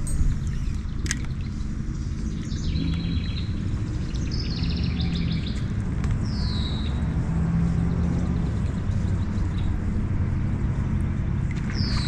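Small birds singing, with a few quick chirping phrases and two falling whistled notes, over a steady low rumble.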